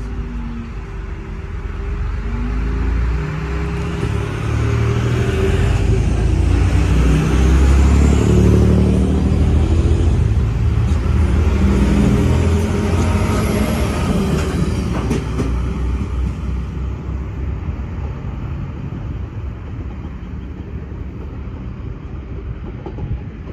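DSB IC3 diesel multiple unit passing through a station: the drone of its diesel engines and the rumble of wheels on the rails build as it comes in and are loudest as it runs past, about 8 to 13 seconds in. The rumble then eases off steadily as a train pulls away.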